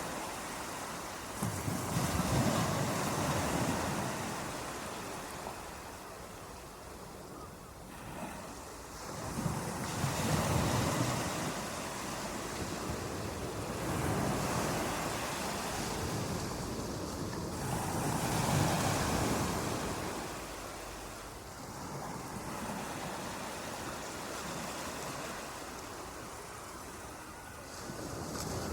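Ocean waves breaking and washing up on a beach, surging and ebbing every few seconds, with some wind.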